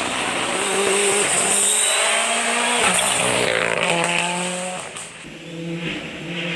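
R5 rally car's turbocharged four-cylinder engine revving hard through a corner, its pitch climbing and dropping with gear changes. The sound dips briefly about five seconds in, then picks up again.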